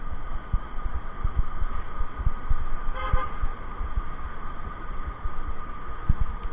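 A vehicle horn gives one short toot about three seconds in. Irregular low thumps of wind buffeting the microphone run underneath.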